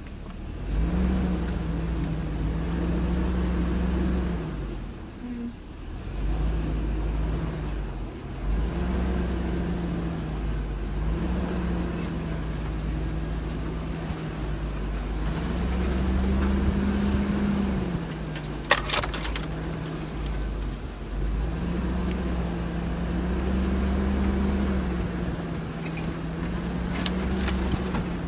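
Chevy Tahoe's V8 engine pulling the truck slowly over a rough, narrow dirt track, its pitch rising and easing off over and over as the throttle is worked. A brief sharp clatter about two-thirds of the way through.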